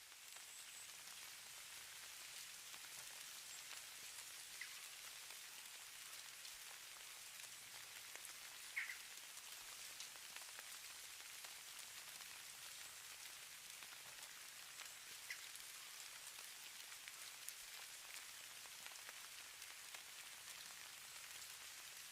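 Faint, even hiss of falling snow with scattered tiny ticks, the patter of light precipitation. Three brief high squeaks stand out, the loudest a little before halfway.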